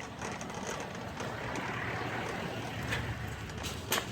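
Shopping cart rolling across a parking lot: a steady rattling rumble from the wheels and wire basket, with a couple of sharp clacks near the end.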